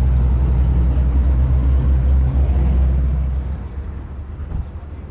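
A car engine running at idle, a steady low rumble that falls off about three and a half seconds in.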